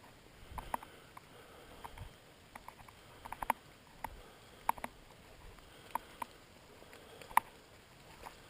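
Scattered raindrops and drips tapping close by, irregular sharp taps over a faint steady hiss of rain, with one louder tap near the end.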